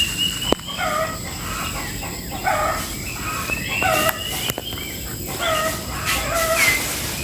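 Birds calling over and over, short calls with shifting pitch about once a second, mixed with a thin, slightly rising whistle-like note that comes and goes.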